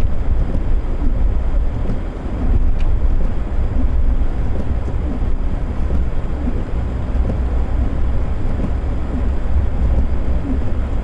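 Off-road 4x4 on snow chains driving slowly through fresh snow: a steady low engine and drivetrain rumble with a rough noise of tyres and chains in snow.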